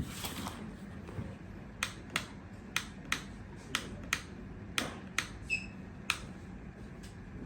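A series of about ten sharp, separate clicks at an uneven pace, roughly two a second, over a faint low steady hum, with a brief high beep about five and a half seconds in.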